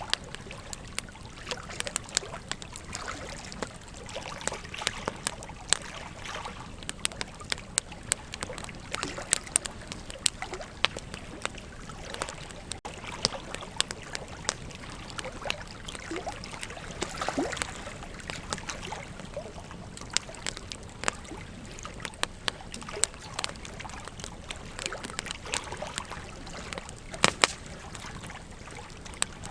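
Wood campfire crackling, with frequent sharp pops and snaps, a cluster of louder ones near the end, over a steady rush of river water.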